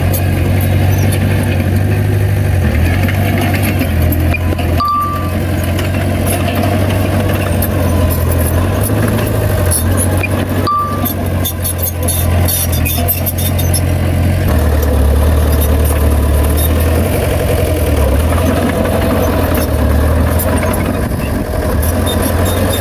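Heavy diesel engine of earthmoving machinery running steadily, its low hum shifting pitch about two-thirds of the way through. Two short high beeps come a few seconds apart.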